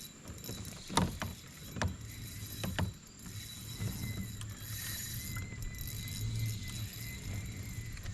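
Kayak moving on a river: a few sharp knocks against the hull in the first three seconds, then steady low water and hull rumble.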